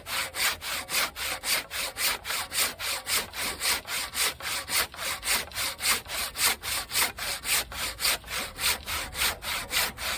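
Husky 20-inch fine-tooth hand saw cutting through a dried tree trunk, steady back-and-forth strokes at about three a second, each stroke a rasping rush.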